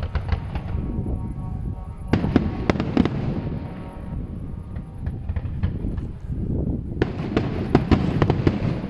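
Fireworks display: rapid volleys of shells bursting with sharp bangs and crackles, coming in three clusters, at the start, around two to three seconds in, and again near the end.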